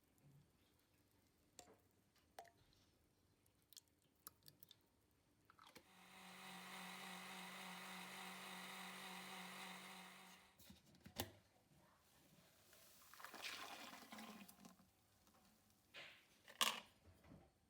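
Countertop blender motor running steadily for about four and a half seconds, starting about six seconds in. Scattered light clicks and knocks come before and after it, with a sharp clack near the end.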